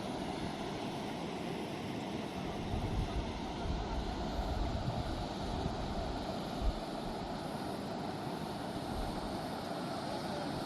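Steady rush of a fast-flowing river, with wind buffeting the microphone in low gusts through the middle and a single brief thump about two-thirds of the way in.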